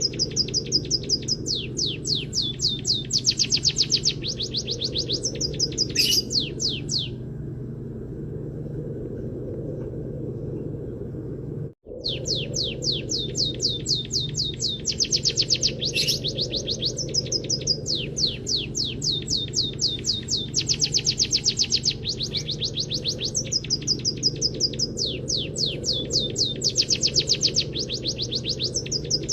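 Recorded songbird song of fast, evenly repeated trilled notes in canary style, phrase after phrase, over a steady low hum. The song stops for about five seconds partway through; the sound cuts out for an instant just before it resumes.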